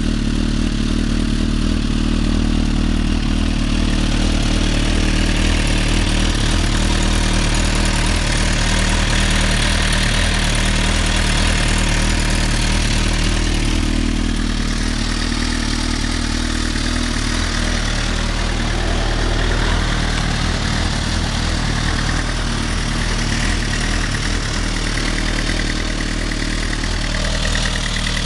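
Suzuki GSX-R1000 K8's inline-four engine idling steadily through a full Yoshimura R77 exhaust system.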